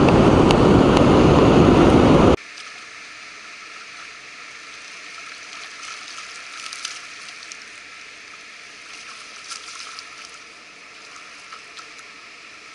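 Loud rushing noise that cuts off abruptly about two seconds in. After that, a faint steady trickle and gurgle of river water with a few light clicks.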